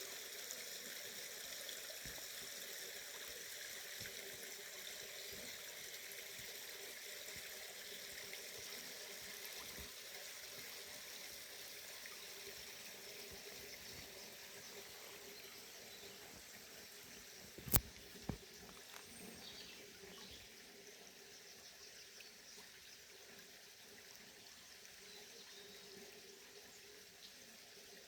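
Forest river water running steadily, slowly growing fainter, with two sharp clicks a little over halfway through.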